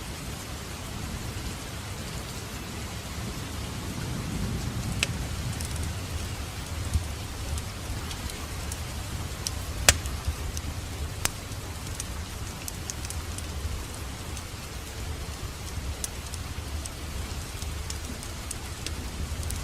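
Wood fire crackling in a fireplace: a low steady rumble of burning with scattered sharp pops and snaps. The loudest pop comes about ten seconds in.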